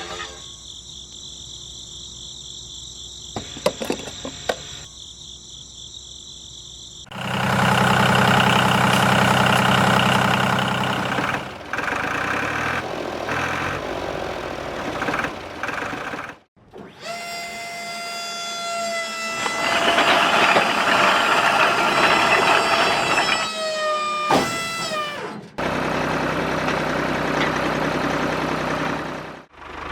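A small motor running in several short cuts: a steady high whine, then louder running, then a pitch that climbs as it speeds up and drops sharply as it slows, then a steady hum.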